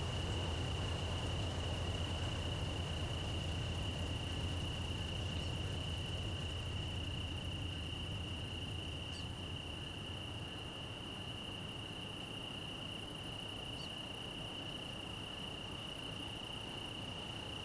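Crickets trilling steadily in one unbroken high tone. Beneath them the low rumble of a departing three-locomotive Union Pacific train fades away over the first ten seconds or so.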